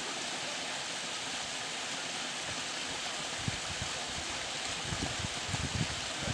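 Mountain stream rushing over rocks with a steady, even flow. From about halfway in, short low bumps break in over it.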